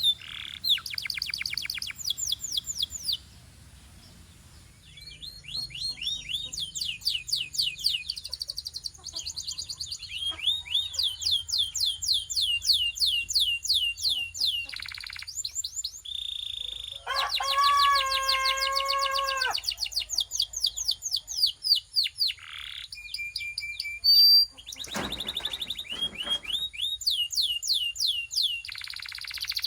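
Belgian canary singing: phrases of fast trills made of rapidly repeated high notes, with a brief pause early on. Around the middle comes a lower, fuller rolling phrase lasting a couple of seconds.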